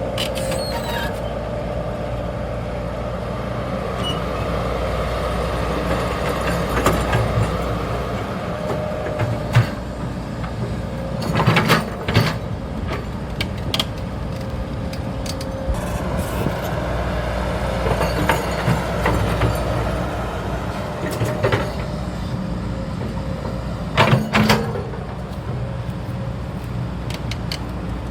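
Hydraulic excavator's diesel engine running steadily, with sharp knocks in two pairs: one around the middle and one a few seconds before the end.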